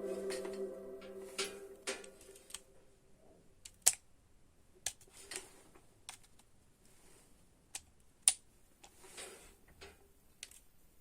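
Background music fading out over the first two seconds or so, then scattered small clicks and ticks, with sharper single clicks about four and eight seconds in.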